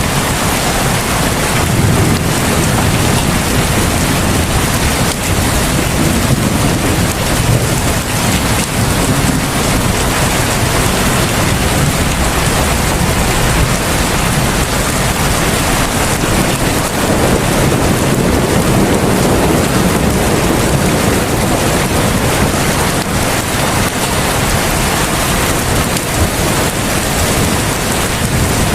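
Heavy rain falling steadily: a dense, even hiss, with a low rumble that swells and fades now and then.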